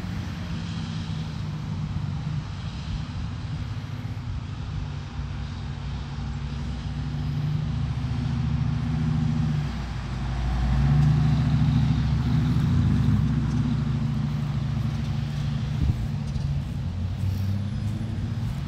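A steady low motor drone with several pitched hums, growing louder about ten seconds in.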